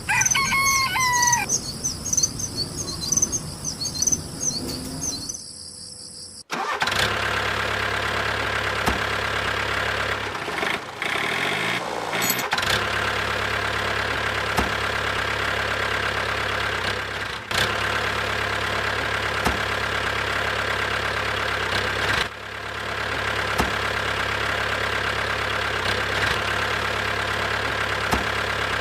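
Birds chirping over a hiss for the first few seconds, then after a sudden cut a motor runs steadily with a low hum and a steady whine, faltering briefly a few seconds after it starts.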